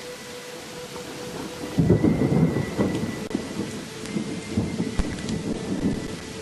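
A roll of thunder over steady rain. The rain hisses evenly, then about two seconds in a loud low rumble breaks in and rolls on in waves for around four seconds before dying back.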